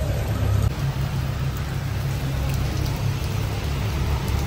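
Heavy rain falling steadily on a waterlogged street, with a constant low rumble underneath.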